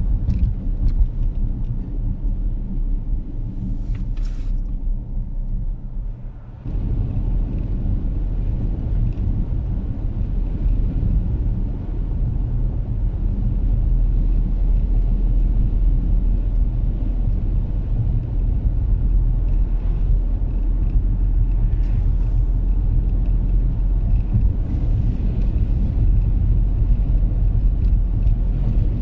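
A car driving, heard from inside the cabin: a steady low rumble of engine and road noise, dipping briefly about six seconds in before running on slightly rougher.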